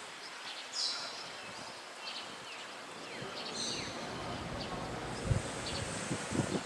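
Outdoor ambience with a few short, high bird chirps and quick falling calls. A low rumble of wind on the microphone comes about five seconds in.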